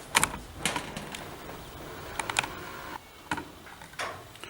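About six sharp, irregular clicks and clacks from small hard objects being handled and set down on a work surface: a pair at the start, a pair in the middle, then single clicks near the end.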